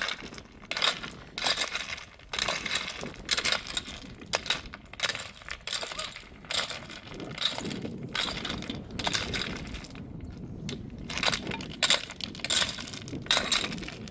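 Irregular sharp clinks and knocks of hard objects striking, with a short lull about ten seconds in.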